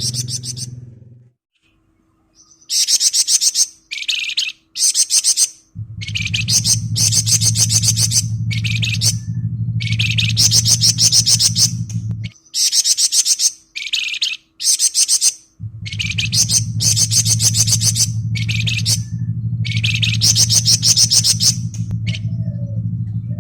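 Caged flamboyan songbird singing its ngebren song: rapid, dense trilled bursts of about half a second to a second and a half each, repeated over and over. A low steady hum runs underneath for most of the second half.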